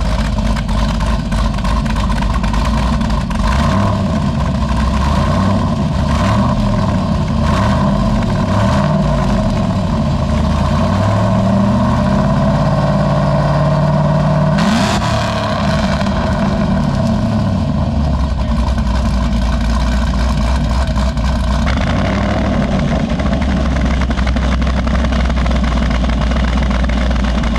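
Chevrolet Caprice PPV V8 with party whistles stuffed into its exhaust, revved in several quick blips and then a longer climb that is held before dropping back sharply to idle about halfway through. It settles into a steady idle for the rest of the stretch. This is a test of whether the whistles sound once the NPP exhaust valve is opened up.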